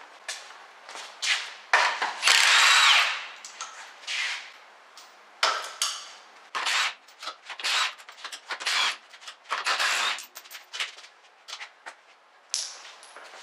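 Tools and metal parts of a drum brake assembly being worked on by hand: irregular scrapes, clicks and clatter, with a longer, louder scrape about two seconds in.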